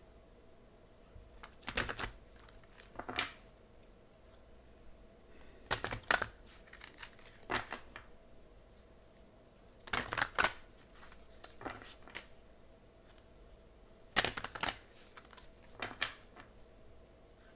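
Tarot cards being shuffled by hand: short bursts of flicking, crackling card noise, coming in a quick cluster every two to four seconds.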